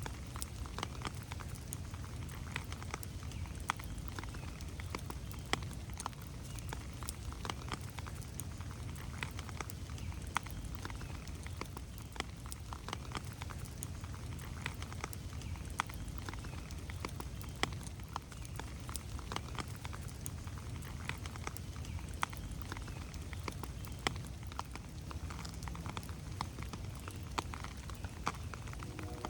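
Rain falling in a forest, with many irregular drops tapping sharply on leaves and the ground over a steady low rumble.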